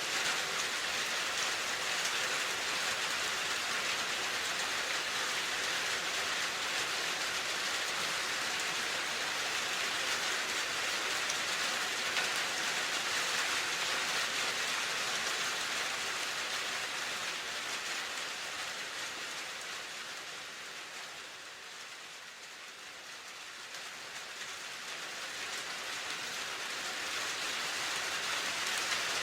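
Steady rainfall, an even hiss. It softens somewhat about two-thirds of the way through, then swells back up near the end.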